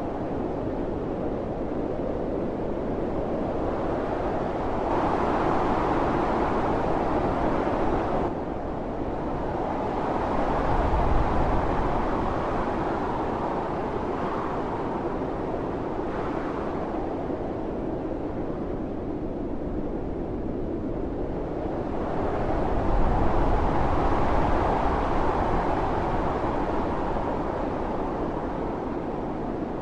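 Blizzard wind blowing steadily, rising into stronger gusts three times, with a low rumble at the height of two of them.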